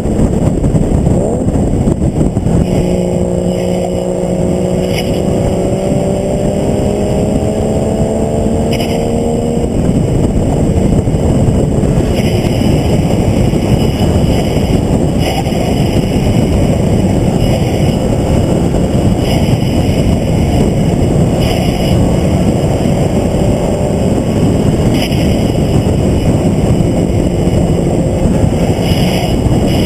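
Onboard sound of a vehicle lapping a road course at speed: heavy wind and road noise over the engine. For about seven seconds the engine note climbs steadily under acceleration, then breaks off suddenly. It starts rising again near the end.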